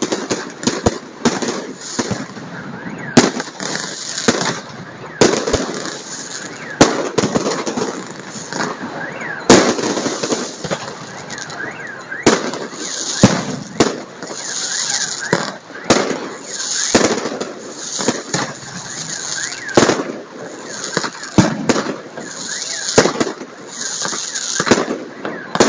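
Aerial fireworks bursting in a continuous barrage of sharp bangs at irregular intervals, several close together at times.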